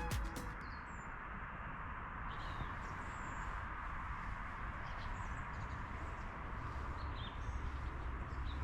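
Steady outdoor background hiss over a low rumble, with a few faint, high bird chirps scattered through it.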